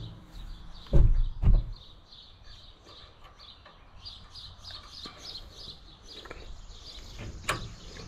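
Two heavy thumps about a second in, then birds chirping, with a sharp click near the end.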